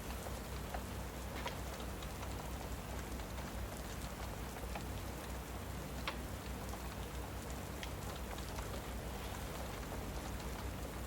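Steady rain falling, with a low rumble beneath and a few sharp crackles from a wood fire in a fireplace.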